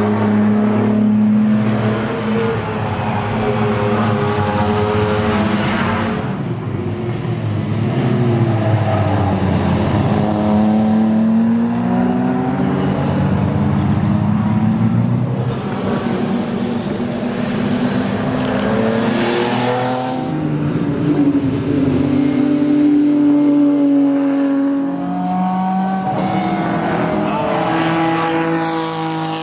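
Ferrari 250 GTO's V12 engine at racing speed on track, revving up and falling back again and again through gear changes and corners.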